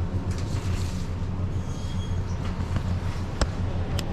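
Steady low machine hum, with two sharp clicks in the last second.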